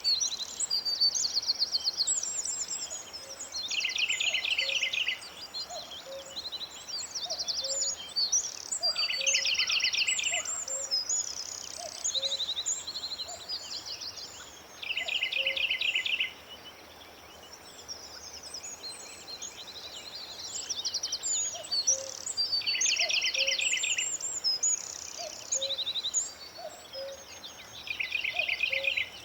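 Several birds singing: one repeats a fast, buzzy trill of rapid notes lasting about a second, every few seconds, among higher scattered chirps and soft low notes. The singing thins out for a few seconds about halfway through.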